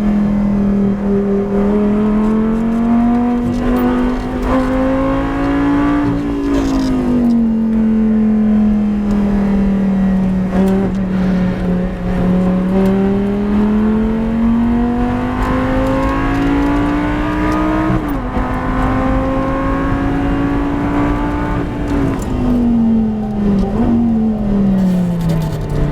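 Race car engine running at high revs, its pitch climbing and falling as it accelerates and slows, with sudden pitch drops about 6 and 18 seconds in and a long falling note near the end.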